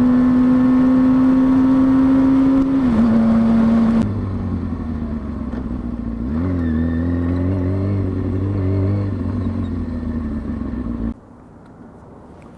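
2003 Kawasaki ZX-6R 636 inline-four engine running at a steady high pitch while riding. About four seconds in the sound changes abruptly to a lower, rougher engine note with a brief rev, and near the end it falls away to a quiet background.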